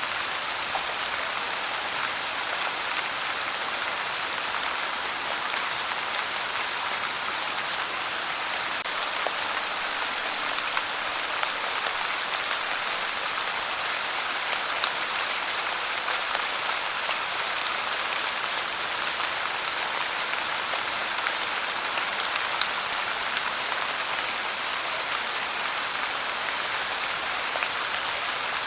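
Steady pouring rain: an even hiss of many drops with scattered louder single drop ticks.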